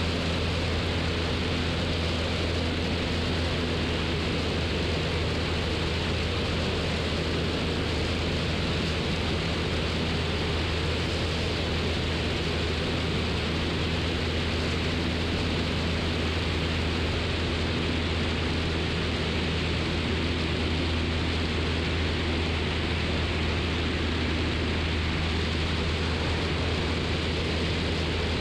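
Cessna 172's four-cylinder piston engine and propeller droning steadily in cruise flight, a constant low hum with an even rushing noise over it.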